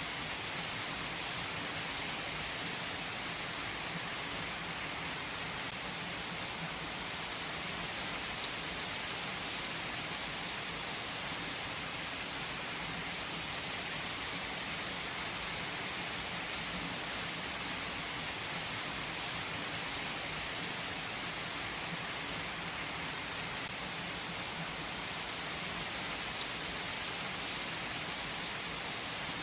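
Heavy rain falling steadily on tree foliage, an even hiss with a few distinct drop hits.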